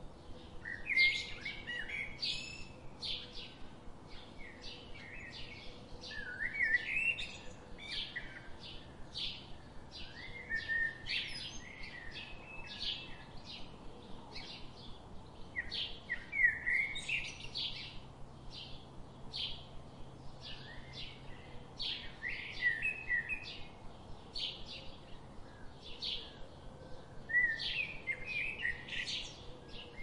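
Small birds chirping and singing: a steady run of short high chirps, a few each second, broken every few seconds by a louder rapid song phrase.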